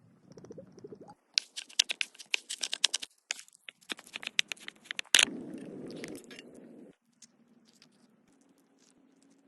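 Hand food preparation for stuffed onions: a quick run of crisp clicks and scrapes for about four seconds, a single louder snap about five seconds in, then a softer rustling scrape that fades to faint.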